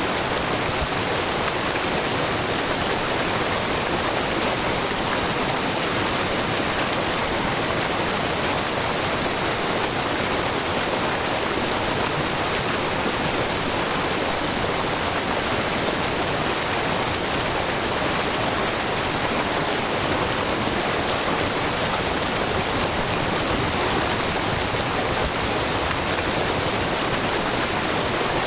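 Wide, low waterfall of spring water pouring in many thin streams down a rock face, a steady, unbroken rush of falling water.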